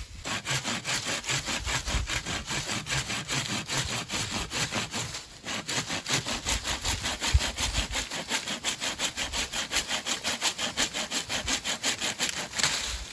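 Hand saw cutting through a piece of firewood in fast, even strokes, about four a second, with a short pause about five seconds in before the sawing resumes.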